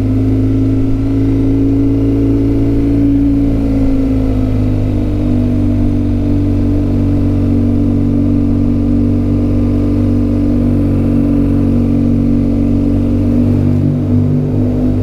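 Motorcycle engine running at a steady cruise on the road, its pitch easing down slightly a few seconds in.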